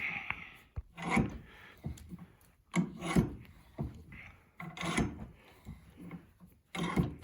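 Welded 16-gauge mild steel tube being slowly crushed, with a rasping, creaking stroke about once a second as the crushing tool is worked.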